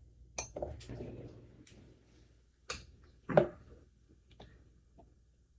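Kitchen utensils and dishes knocking and clinking on a counter while flour is measured out: a string of separate sharp clicks and knocks with some soft rustling, the loudest knock about three and a half seconds in.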